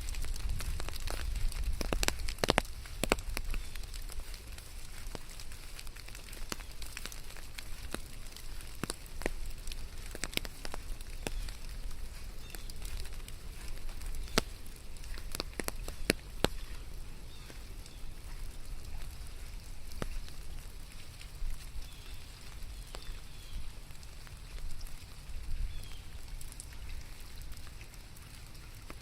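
Steady rain falling, with irregular sharp drops tapping close by, thickest about two seconds in, over a low rumble.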